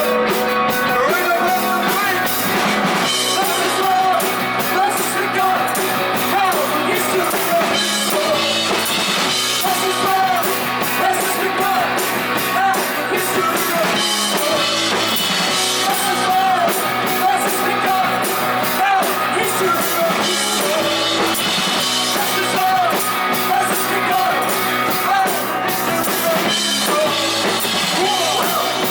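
Rock band playing live: drum kit and guitars with a singing voice.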